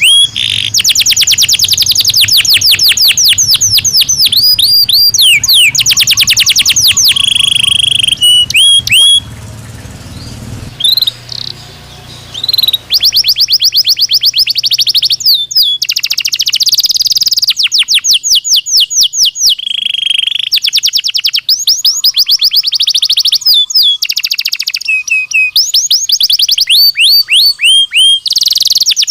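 Belgian canary singing: fast trills of rapidly repeated falling notes alternating with held rolls, with a short quieter pause about ten seconds in.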